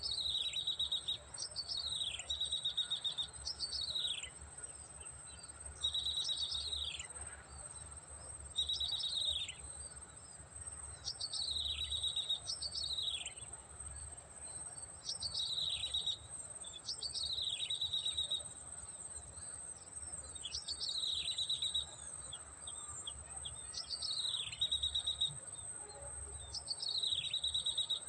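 Prenjak (prinia) calls repeated every one to two seconds, each a quick falling sweep followed by a fast rattling trill. A steady high insect drone runs beneath them.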